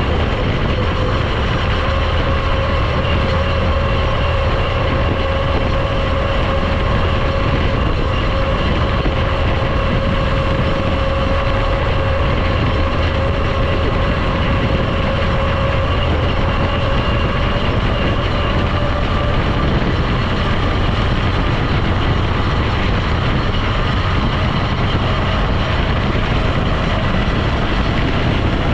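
The Eager Beaver vehicle under way at a steady speed: an even engine and road drone with a faint steady whine over it, which fades about two-thirds of the way through.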